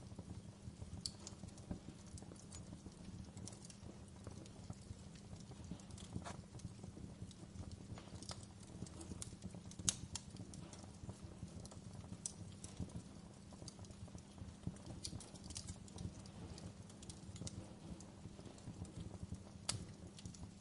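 Wood fire burning in a fireplace: a soft low rumble with irregular sharp crackles and pops, the loudest pop about halfway through.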